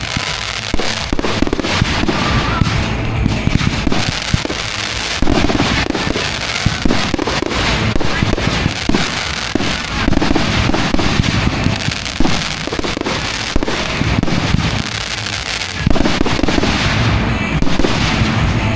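Fireworks going off in a dense, continuous barrage, many bangs and crackles overlapping with hardly a gap, over music playing underneath.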